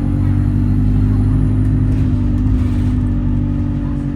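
Bus engine running steadily, a deep drone heard from inside the bus.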